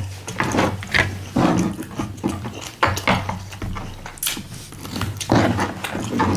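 Close-up chewing of a mouthful of taco: irregular wet smacks and crunches, one after another, over a low steady hum.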